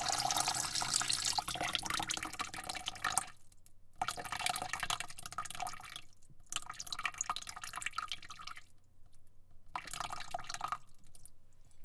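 Water running and splashing in about four bursts of one to three seconds, each stopping abruptly, with short gaps of quiet between them.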